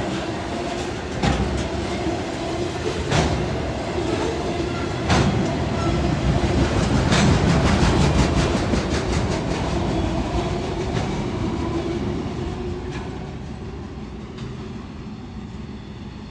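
Short Norfolk Southern freight train rolling past, its wheels clicking over rail joints over a steady rumble and a steady tone. It is loudest about halfway through, then fades as the train goes by.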